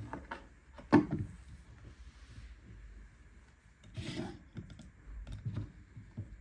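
Household handling noises: a sharp knock about a second in, a short rustling scrape around four seconds, then a few soft thuds.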